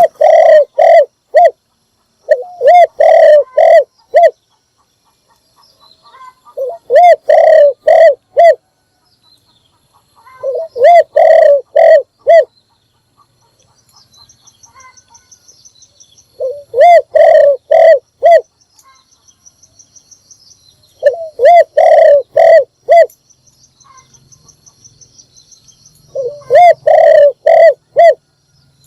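Spotted dove cooing: loud phrases of five or six quick coos, repeated about every four seconds with short pauses between. A faint high trill from another small bird runs in the background through the middle stretch.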